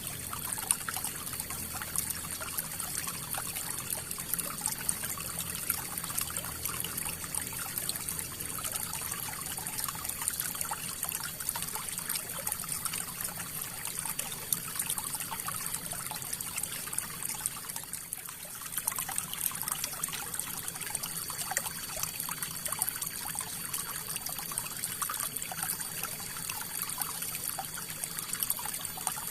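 River water flowing steadily, a continuous rush with a dense patter of small trickles and splashes. It briefly eases about eighteen seconds in.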